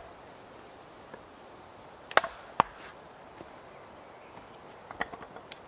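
Small carving axe chopping into a wood round: two sharp chops about two seconds in, half a second apart, and a lighter knock near the end.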